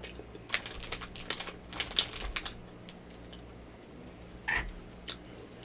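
Close-miked chewing of a soft cookie: a run of sharp wet mouth clicks and smacks over about two seconds, then one short louder mouth sound near the end.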